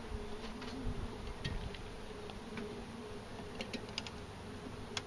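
Honey bees from an open hive buzzing steadily around the microphone, a wavering hum. A few light clicks and knocks sound at intervals over it, the sharpest about a second in and near the end.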